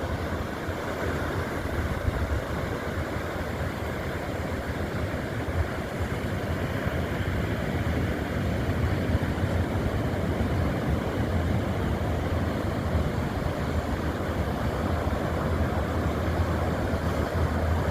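Ocean waves crashing, a steady wash of surf noise heaviest in the low end that swells slightly louder over the stretch.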